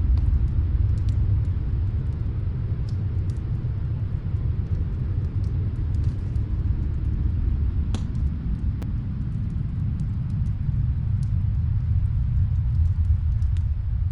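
Snowstorm wind as a steady low rumble, with faint, scattered crackles and pops of a wood fire in a fireplace.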